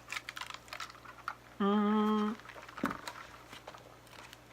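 Light clicks, taps and rustles of fast-food packaging being handled, with a short held voiced sound, like a hum, about a second and a half in.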